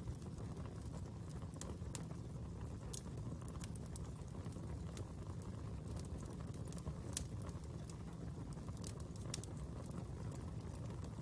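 Fire burning with a steady low rumble and irregular sharp crackles and pops, one louder pop about seven seconds in.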